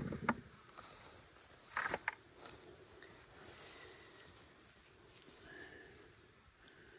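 Crickets trilling steadily and faintly, with a couple of short rustling scrapes, one right at the start and one about two seconds in.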